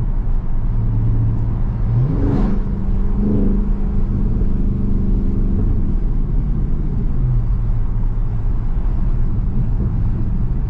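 Dodge Charger Daytona 392's 6.4-litre HEMI V8 heard from inside the cabin while driving: the engine note rises about two seconds in, holds, then drops back to a lower steady drone around seven seconds in.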